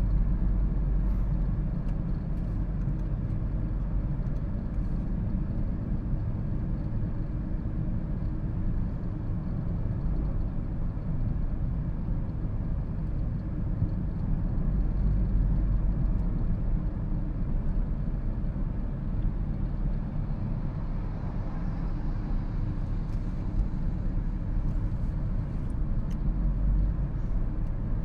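Steady low road and tyre rumble of a 2013 Toyota Prius on the move.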